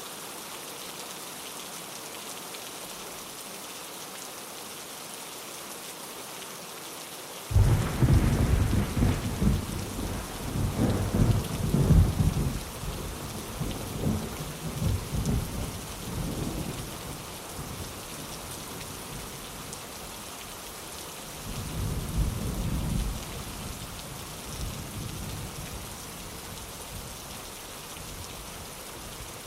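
Steady rain hissing with thunder: a sudden loud crack about seven seconds in that rolls on as a rumble for about ten seconds, then a second, shorter rumble about twenty-two seconds in.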